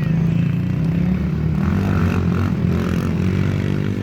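Small single-cylinder four-stroke pit bike engine running, its pitch wavering a little with the throttle.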